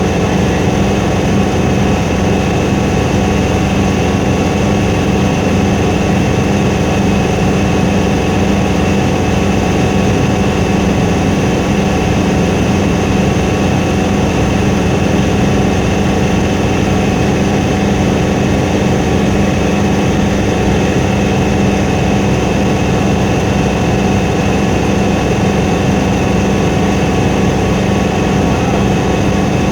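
Helicopter engine and rotor noise: a loud, steady drone with several held tones, strongest in a low hum, unchanging throughout.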